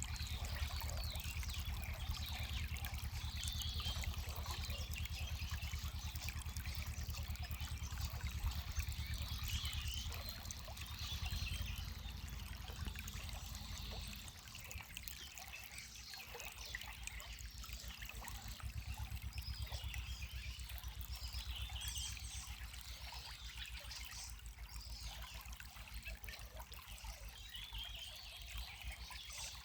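Spring water trickling and splashing steadily, with small birds chirping and singing on and off. A low rumble under the water drops away about halfway through.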